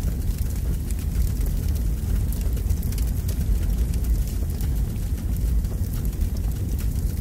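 Campfire crackling with scattered faint pops over a steady low rumble.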